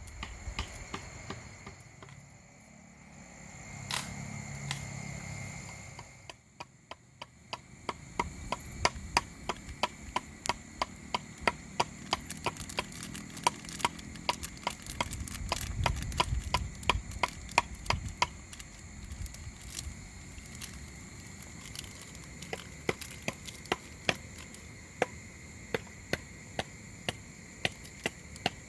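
Wood being chopped: sharp knocks at about one to two a second, starting about seven seconds in. Low gusts of wind rumble on the microphone.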